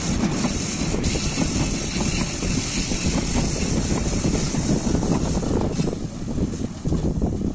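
Rumble of an intercity train's PT INKA passenger coaches rolling past on the rails. It fades from about six seconds in as the tail of the train draws away around the curve.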